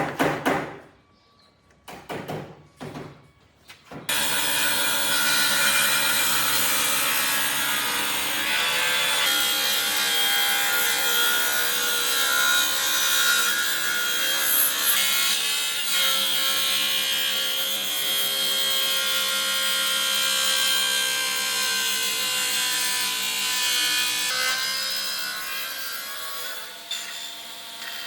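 A power tool running steadily against wood, cutting or sanding, starting abruptly about four seconds in after a few short separate strokes.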